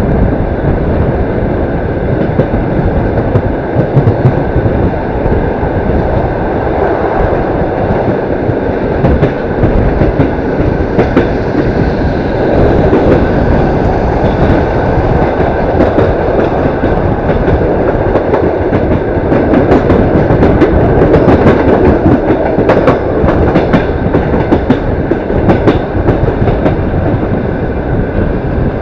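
Passenger train running along the track, heard from inside the carriage: a steady rolling rumble with the wheels clacking over rail joints and switches, the clacks coming more often in the second half.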